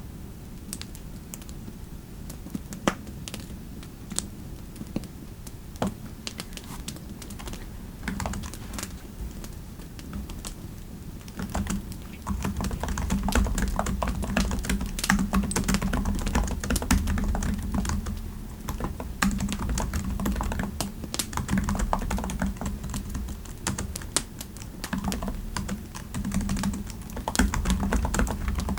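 Typing on a computer keyboard: scattered single keystrokes at first, turning into steady, fast continuous typing from a little before halfway.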